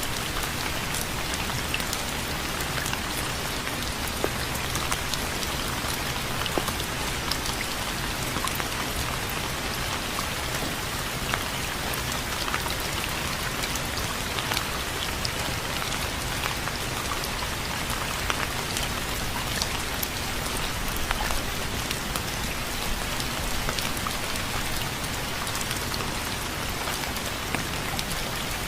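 Steady rain falling, a constant hiss with many sharp individual drops ticking on a hard surface.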